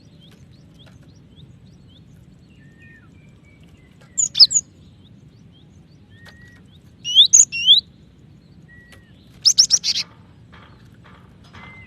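Female cinereous tit calling: three bursts of quick, sharp chirps a few seconds apart, with faint thin whistles between them.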